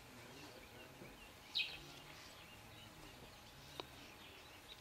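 Faint outdoor ambience with scattered short bird chirps, the loudest about a second and a half in, and a single brief click near the end.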